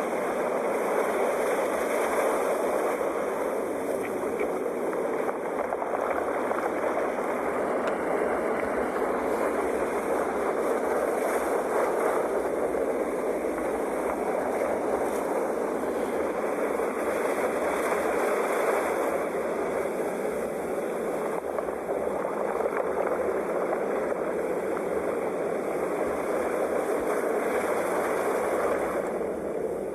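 Sea waves: a steady, continuous rush of surf with only slight swells in loudness.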